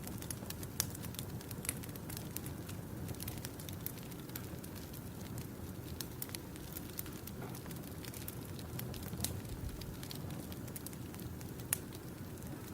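Campfire crackling: burning wood giving a steady low rush with irregular sharp pops and snaps, a few louder ones about a second in and near the end.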